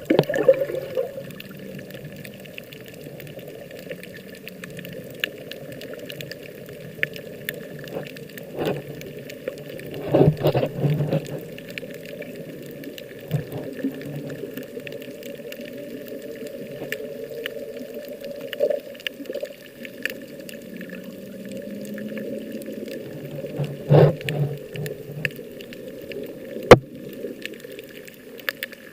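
Sea water sloshing and gurgling close to the microphone, heard muffled, with louder splashes and knocks about ten seconds in and again near the end.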